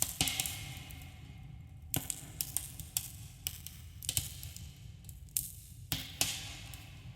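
Campfire crackling: irregular sharp pops and snaps of burning wood, several a second, with a short echo after each, over a steady low rumble.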